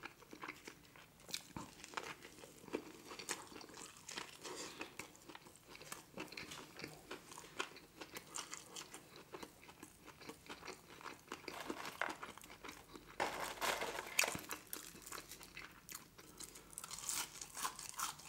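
Close-up chewing and mouth sounds from eating a saucy McDonald's Grand Mac burger: soft wet smacks and many small clicks, a little louder about two-thirds of the way in. Near the end, fingers are sucked clean of sauce.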